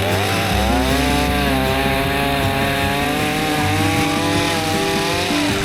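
Two-stroke chainsaw running at high revs in a cut; its note wavers and sags under load, then drops away about five seconds in.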